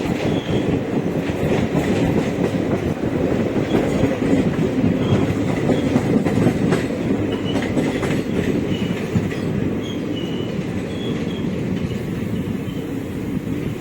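Samleshwari Express passenger coaches running along the track with a steady rumble and wheels clicking over rail joints. Short high-pitched wheel squeals come now and then, mostly in the second half.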